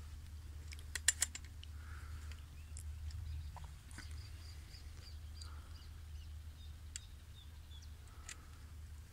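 Faint outdoor ambience: a small bird chirping in a quick run of short high notes through the middle, over a low steady rumble, with a few sharp clicks about a second in.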